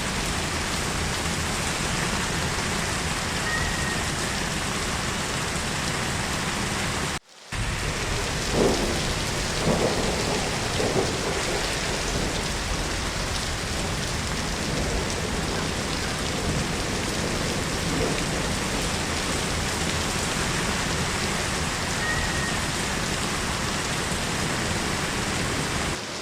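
Heavy rain falling steadily. The sound cuts out for a moment about seven seconds in, and a few louder hits follow a couple of seconds later.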